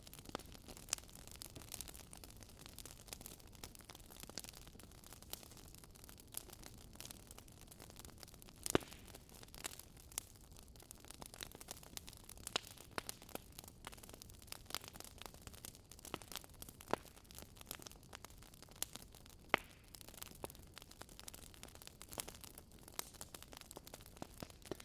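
Wood campfire crackling, with irregular sharp pops over a faint steady hiss; two pops, about nine seconds in and near twenty seconds, stand out as the loudest.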